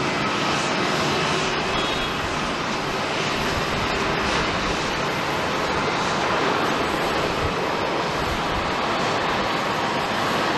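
Jet airliner engines heard across an airport apron, a steady, even roar with no clear rise or fall.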